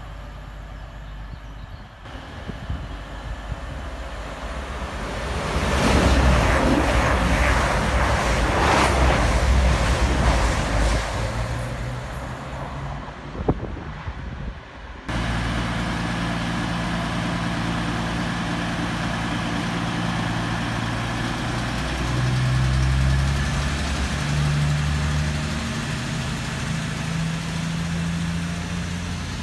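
A train runs through the platform, with wheel and rail noise building to a loud peak and fading away. After an abrupt change, a Class 222 Meridian diesel multiple unit runs in, its underfloor diesel engines droning at level pitches that step up several times near the end.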